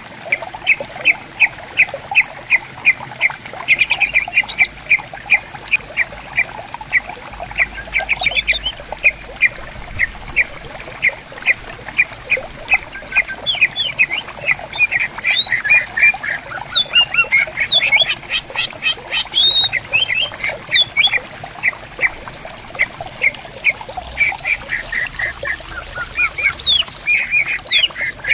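Green leafbirds (cucak ijo) calling: a fast string of short, sharp, harsh notes, about three or four a second, with bursts of higher sweeping chirps in the middle and near the end. A stream trickles underneath.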